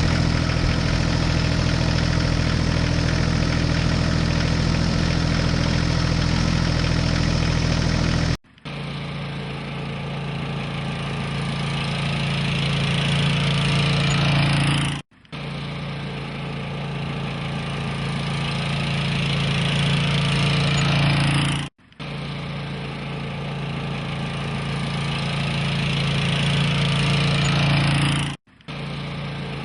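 Engine running with a steady low hum for about eight seconds. Then a segment of about six and a half seconds, slowly getting louder and cutting off abruptly, repeats three times like a looped recording.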